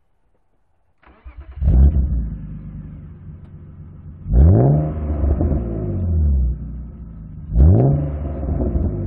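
BMW E36 328i's M50 straight-six, breathing through a Gpower aftermarket exhaust, starting about a second in with a short crank and a loud flare, then settling to idle. It is blipped twice, each rev rising sharply and falling back to idle.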